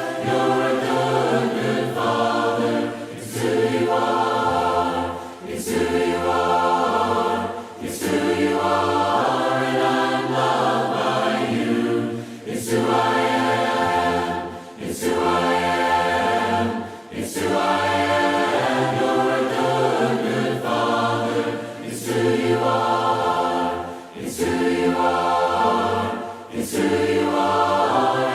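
Choir singing a hymn a cappella, in held chords sung in short phrases with brief breaks between them.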